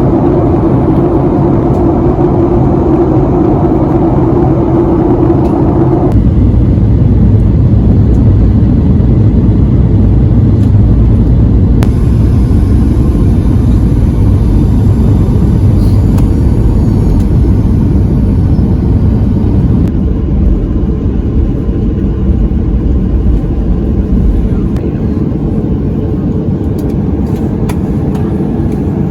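Steady low rumble of a moving vehicle. About six seconds in the sound changes abruptly: a midrange hum drops out and a deeper rumble carries on.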